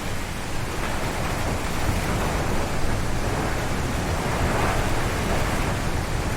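Strong wind gusting through a forest, trees rushing and the wind booming low on the microphone, swelling a little in the middle.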